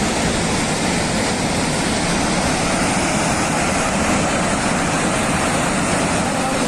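Loud, steady rushing of a fast floodwater torrent, an even noise with no breaks.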